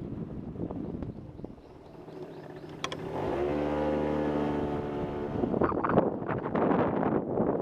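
Motorcycle engine running at a steady pitch, with gusts of strong wind buffeting the microphone before and after. There is a sharp click just before the engine tone comes through clearly.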